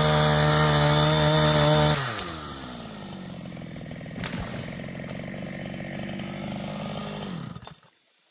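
Two-stroke chainsaw running at high revs, then dropping back to idle about two seconds in. It idles steadily and is switched off shortly before the end. A sharp click is heard about four seconds in.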